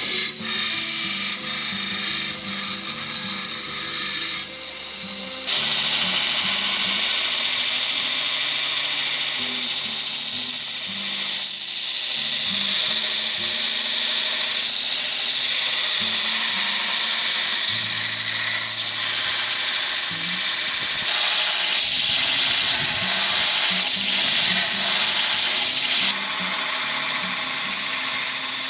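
A power tool running steadily with a high hiss that changes about five seconds in, over background music.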